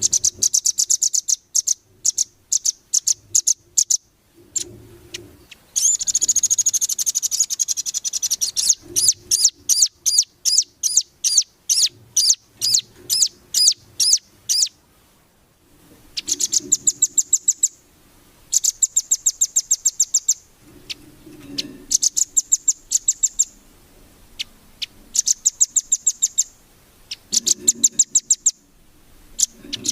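A songbird singing in bursts of rapid, sharp, high chirps lasting a second or a few seconds each, with short pauses between them. A denser, more continuous run comes a quarter of the way in.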